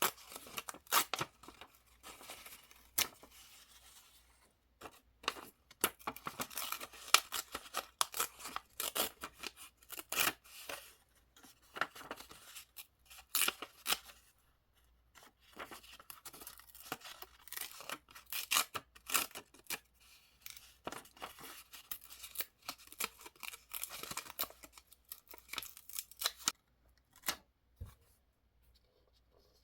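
Scissors cutting paper with paper rustling: runs of crisp snips and crackles in bursts, pausing briefly about five and fifteen seconds in and going quiet near the end.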